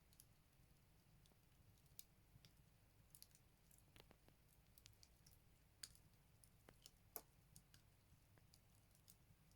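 Firewood burning in a Buleryan wood stove, crackling faintly with scattered, irregular pops and snaps, a few of them sharper.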